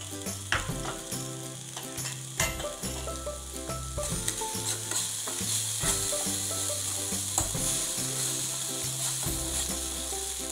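Chopped onion, tomato and green chilli sizzling in a nonstick frying pan as a spoon stirs and scrapes through them, with a few sharper scrapes early on. The sizzle grows louder from about four seconds in.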